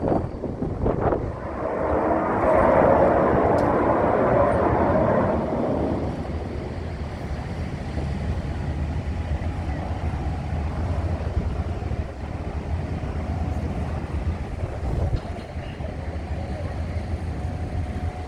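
Aircraft engine noise, loudest for a few seconds near the start and then settling to a steadier, quieter rumble, with wind on the microphone.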